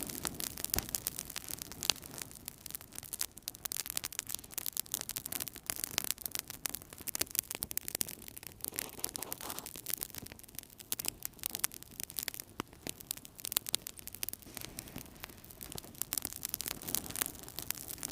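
Wood fire burning in a fireplace, crackling continuously: a dense patter of small pops with occasional louder snaps over a soft hiss of flame.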